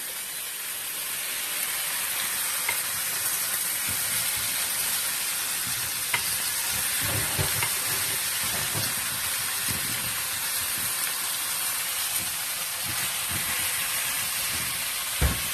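Food frying in pork fat in a hot pan, a steady sizzle. There is a single sharp knock just before the end.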